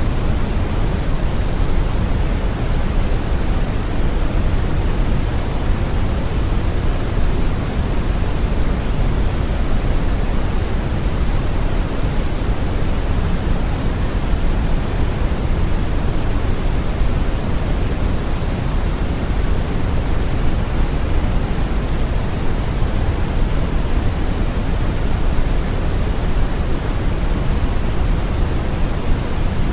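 Steady brown noise: a deep, even rushing hiss weighted toward the bass, with no changes.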